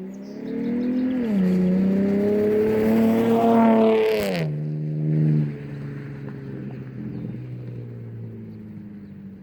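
Race car engine revving up through the gears, its pitch stepping down once at a shift about a second in, then climbing again. About four seconds in, the pitch drops and the sound fades to a steadier, quieter tone.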